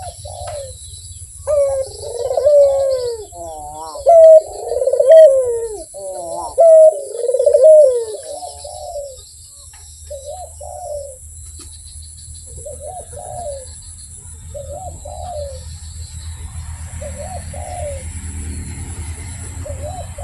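Puter (ringneck dove) cooing: a loud run of rolling, warbling coos in the first half, then single shorter coos about every two seconds. Faint high chirps of other birds and a low rumble sit underneath.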